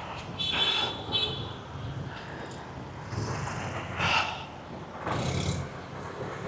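Street traffic: motorbikes and cars passing, with a steady rumble and a few louder passes.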